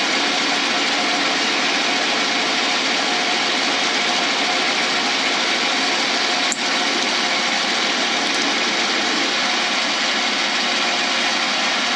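Lathe running steadily while a cutting tool takes a pass along a cast blank, an even whir with a constant hum of tones. There is one brief click about halfway through.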